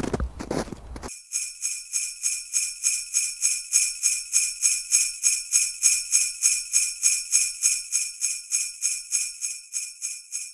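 Jingle bells shaken in a steady rhythm, about three shakes a second, with a bright metallic ring. They start about a second in, after a moment of crackling noise.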